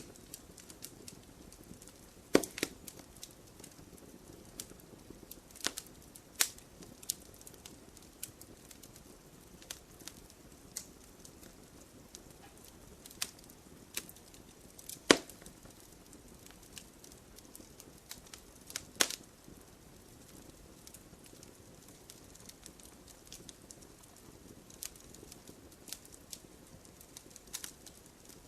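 Wood campfire crackling: irregular sharp pops and snaps over a low steady hiss, with the loudest pops about two seconds in, about halfway through, and about two-thirds through.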